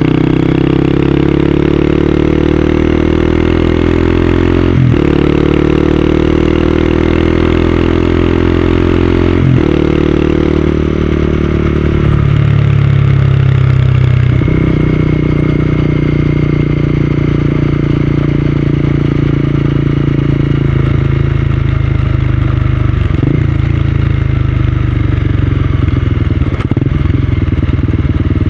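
Honda CB250R's single-cylinder engine accelerating through the gears, its pitch climbing and breaking briefly at upshifts about five and ten seconds in, then running steadily at cruising speed with another short break for a shift near the end.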